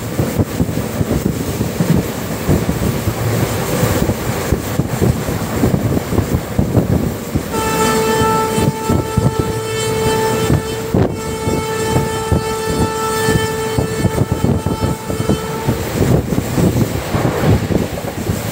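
Indian Railways passenger train running at speed, with the rumble and clatter of its wheels on the rails and rushing air heard from a coach window. About seven seconds in, the locomotive horn sounds one long steady blast of about eight seconds, broken briefly about halfway through.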